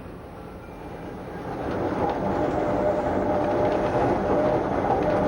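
Wengernalpbahn rack-railway train running, growing louder about a second and a half in, with a steady whine and faint clicking.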